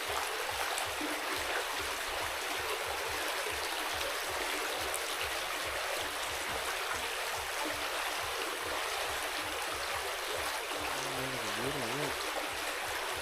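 A stream running steadily: an even rush of flowing water.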